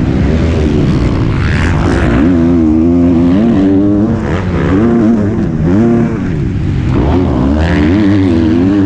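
MX2 motocross bike's engine, heard close up from onboard, revving up and dropping back over and over as the rider works the throttle around the track.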